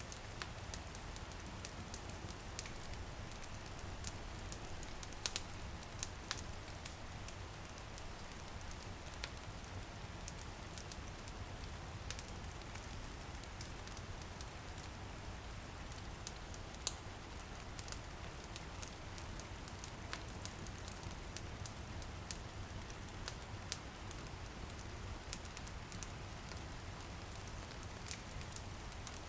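Wood fire crackling in a fireplace, with many scattered sharp pops over a steady low rumble, mixed with light drizzle pattering on a window.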